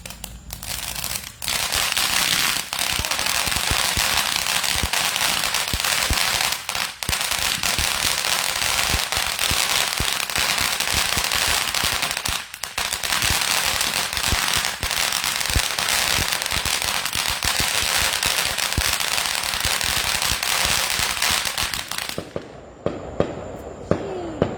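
Consumer fireworks hissing and crackling densely and without a break for about twenty seconds, with two brief dips. The crackling cuts off suddenly near the end, leaving a few separate pops.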